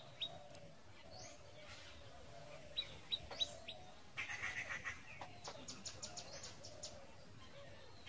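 Faint birdsong: a few short, high chirps about three seconds in, then a quick run of chirps a second later, over a soft wavering call in the background.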